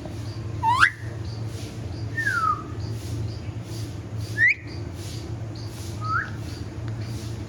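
Pet parrot whistling: four clear whistles sliding in pitch, the loudest a quick rising whistle about a second in, then a falling one and two short rising ones. A steady low hum and faint regular ticking, about two or three a second, run underneath.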